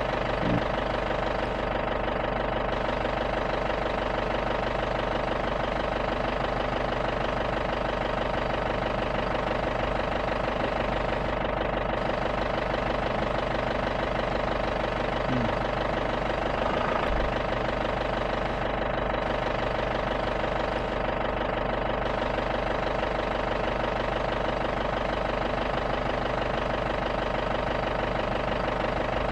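Safari jeep's engine running steadily at a constant low speed, with no revving.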